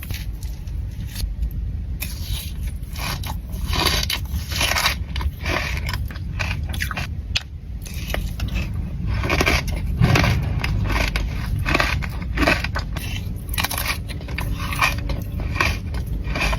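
Close-miked eating of a pistachio and strawberry dessert: bites and wet chewing with many short, crisp crackles at an irregular pace.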